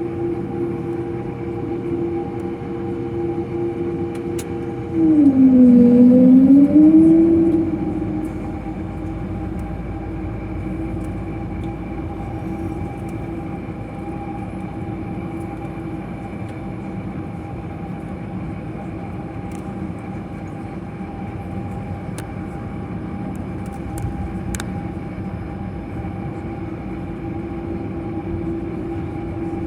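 Steady hum of a jet airliner's cabin while on the ground before take-off, made of several fixed tones. About five seconds in, a louder tone swells, dips in pitch and rises back over about three seconds, then fades into the hum.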